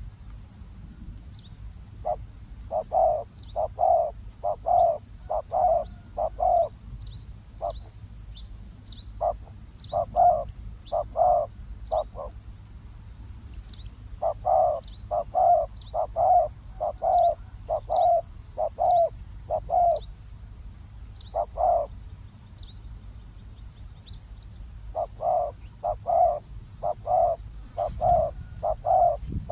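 Spotted doves cooing: phrases of several short, low coos in quick succession, repeated with brief pauses between them. Thin, high chirps sound faintly above.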